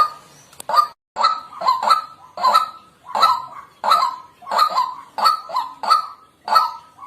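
White-breasted waterhen calling, a run of short, pitched 'kwak' notes repeated about twice a second, some in quick pairs.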